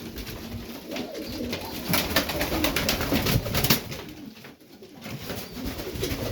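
Serbian Highflyer pigeons cooing in a small loft, with a run of sharp rustling noises about two to four seconds in.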